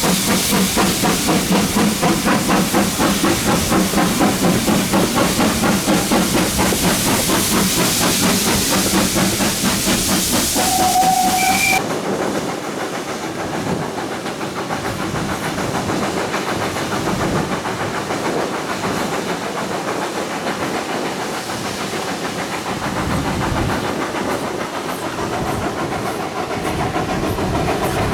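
GWR Manor class two-cylinder 4-6-0 steam locomotive 7820 Dinmore Manor working hard: a fast rhythm of exhaust beats over loud steam hiss, with a short whistle note about eleven seconds in. About twelve seconds in, the sound cuts suddenly to a quieter, duller chuffing of the train running on.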